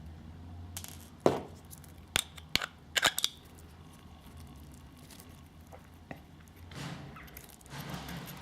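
Sharp clicks and knocks of small metal parts and tools being handled while working on a brushless motor: one loud knock about a second in, then a quick run of clicks around three seconds in, with softer handling rustles near the end.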